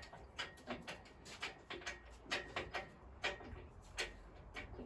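A run of irregular light clicks and knocks, several a second, over a low steady rumble.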